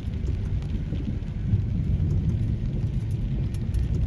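Heavy rain: a dense, steady low rumble with scattered drop ticks.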